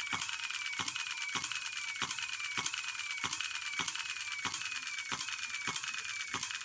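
Model hit-and-miss engine running, with a sharp metallic stroke about every half second, each followed by a short falling ring.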